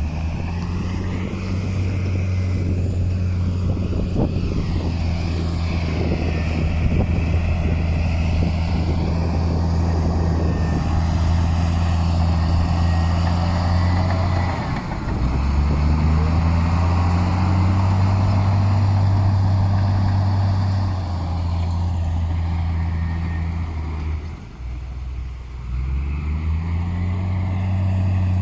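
Heavy diesel engine of earthmoving machinery working under load, with some clatter early on. The engine note drops and climbs back twice, about halfway through and again near the end.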